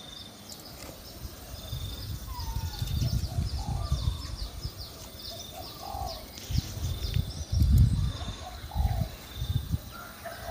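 Coucal calls: short falling calls repeated about once a second, with high chirping above them. Under them runs a low rumbling noise that swells twice, about three and eight seconds in, and is the loudest thing heard.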